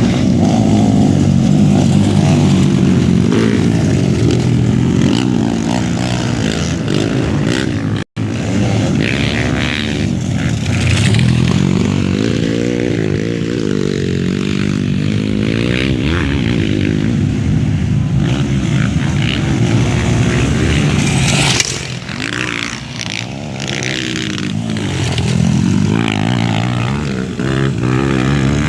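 Motocross dirt bike engines revving up and down as the bikes race, the pitch rising and falling repeatedly. The sound cuts out for an instant about eight seconds in.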